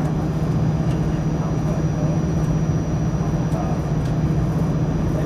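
Excursion train running, heard from aboard: a steady low drone with a constant hum and rumble that does not change.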